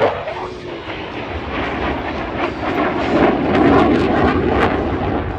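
Jet noise from a Eurofighter Typhoon FGR4's twin EJ200 turbofans during a display pass: a loud, rushing engine noise with a crackling edge. It swells to its loudest a little past the middle, then eases slightly.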